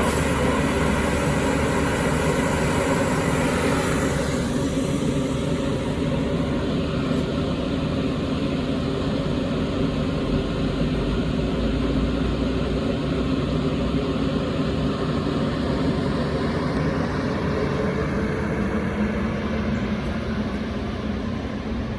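Metra diesel passenger train going by, its locomotive engine a steady loud drone. A held tone of several pitches stops about four seconds in.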